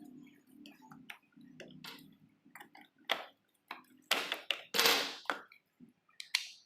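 Plastic clicks, taps and light knocks of a motorcycle's black fuse box cover being unclipped and opened by hand, the loudest knocks coming about four to five seconds in.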